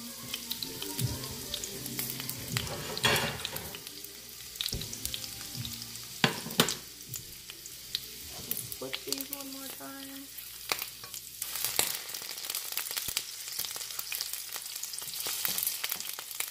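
Onion rings frying in olive oil in a nonstick pan on low heat: a steady sizzle with many scattered crackles and pops.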